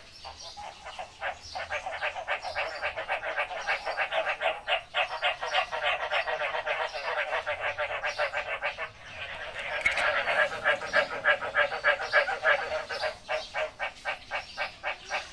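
Chorus of frogs calling together in rapid, pulsing trains that overlap one another. It thins briefly past the middle and then builds again.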